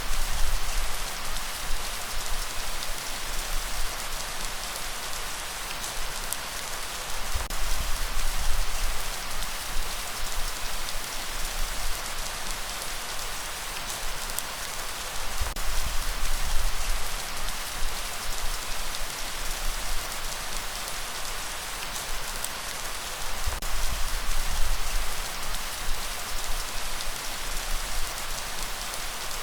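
Steady, heavy rain hissing, with a deep low swell about every eight seconds underneath.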